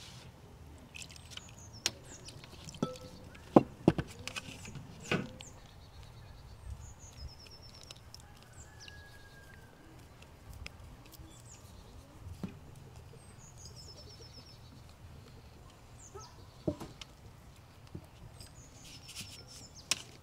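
Small birds chirping and trilling off and on, with a soft whistle now and then. A few sharp knocks and taps stand out, the loudest a cluster about four to five seconds in and another near the end.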